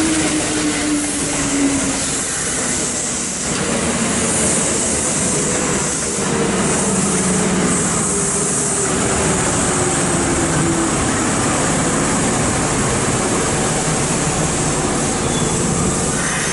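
Kintetsu 8600 series electric train running past along the platform: steady wheel and rail rumble, with motor whine tones that slowly fall in pitch.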